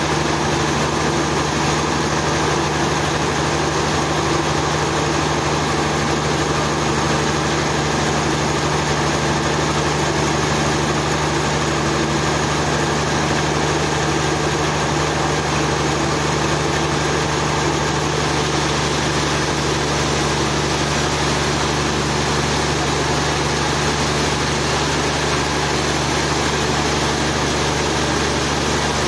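Sawmill engine running steadily at a constant speed, a continuous hum with no breaks.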